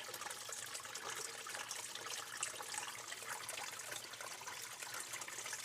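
Water splashing and trickling steadily at a sump pump, which is moving water out of the basement after days of heavy rain.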